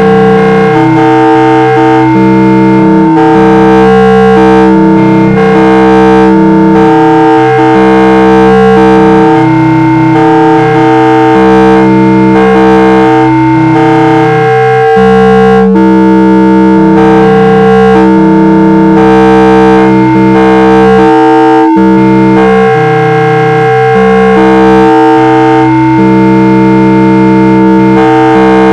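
Algorithmically generated synthesizer tones from TouchDesigner: several steady pitches sound together and switch abruptly to new pitches every second or two, with an occasional click at a change.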